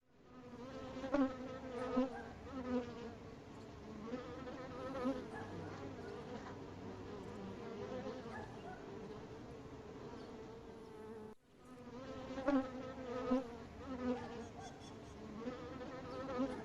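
Bees buzzing at a bee box: a steady droning hum, with single bees buzzing louder several times as they fly close past. The sound breaks off for an instant about two-thirds through, then carries on.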